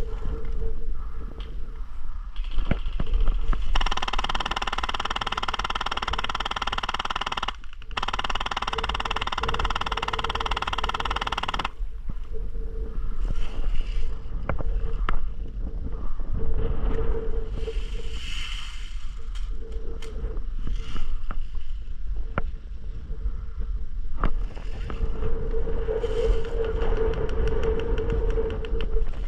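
Wind buffeting the microphone, with a steady buzz that runs for about eight seconds with a brief break in the middle, and scattered short clicks.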